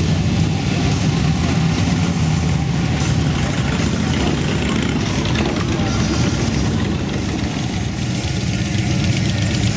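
Motorcycle engine idling, steady and low-pitched.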